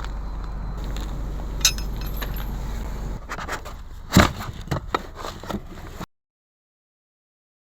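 A low steady hum stops about three seconds in, followed by several metallic clinks and knocks of tools against car parts. The sound cuts out completely about six seconds in.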